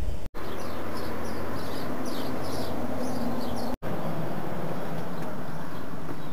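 Small birds chirping over and over against a steady outdoor rush of noise, probably wind. The sound cuts out for an instant twice, and after the second cut only the steady rush is left.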